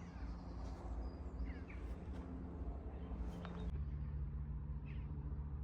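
Countryside ambience: a few short bird chirps over a steady low background rumble.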